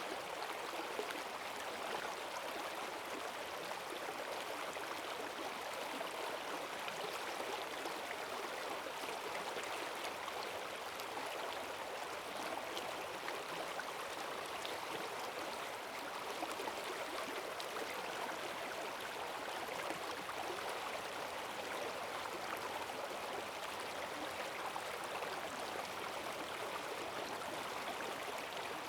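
Forest stream swollen by heavy rain, water rushing and gurgling over its bed in a steady, unbroken stream.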